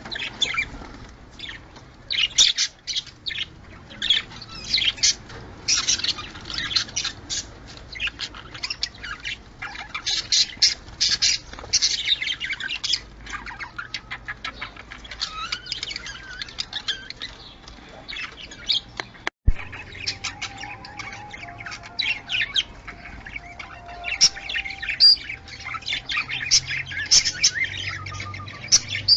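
A flock of budgerigars chattering, warbling and chirping without pause, the busy chatter of budgies in breeding condition. A sharp click with a momentary dropout comes about two-thirds of the way through.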